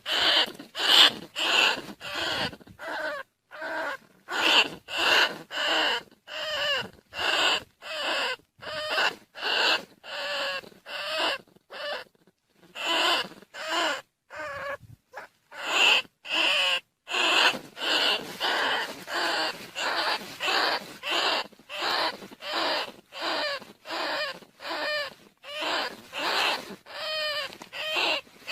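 Rice-field rat and bandicoot rat squeaking calls, played as a decoy call to lure rats. Short, wavering squeals repeat one after another, about one or two a second, with brief silences between them and a longer pause near the middle.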